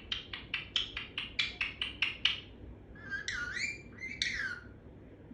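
Pet parrot calling: a rapid run of short chirps, about five a second, then two longer calls that swoop down and back up in pitch.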